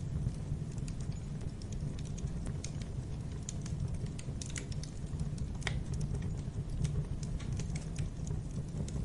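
Wood fire crackling in a fireplace: irregular snaps and small pops over a low, steady rumble of flames, with one sharper pop about five and a half seconds in.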